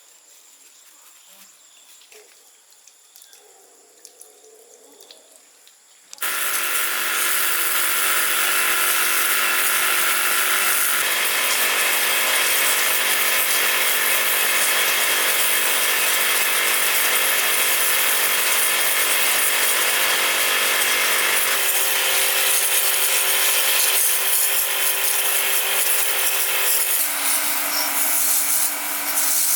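A small electric power tool switches on about six seconds in and runs steadily with a high, noisy whine, its pitch shifting a few times.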